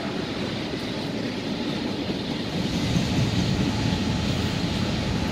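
Freight train's boxcars rolling past: a steady rumble of steel wheels on the rails, growing a little louder about halfway through.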